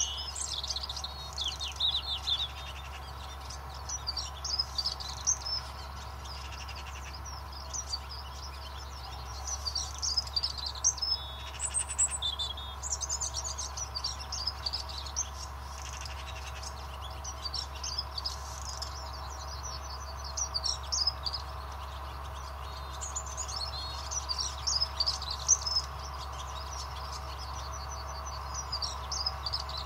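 Small birds singing, with repeated bursts of quick, high chirps, over a steady low hum.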